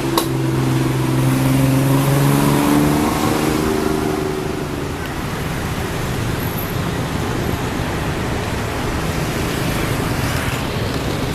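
An engine hum with a steady pitch that slowly fades out over the first four seconds as the vehicle moves off, then steady traffic rumble. A single sharp click comes just after the start.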